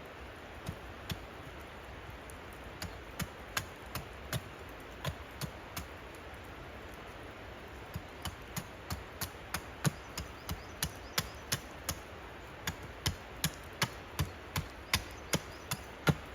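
Sharp knocks over a steady low hiss: scattered at first, then in quicker runs of about two to three a second from about halfway through, the loudest near the end.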